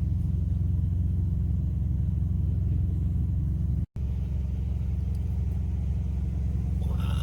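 Semi-truck diesel engine idling: a steady low rumble. It cuts out for a split second about four seconds in, then carries on unchanged.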